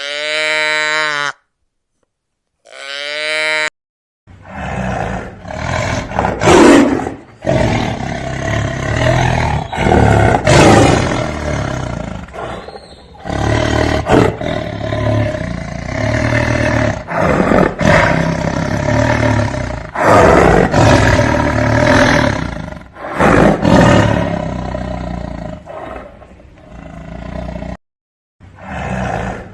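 Two short bleats, then loud, rough animal calls one after another with brief gaps, stopping just before the end.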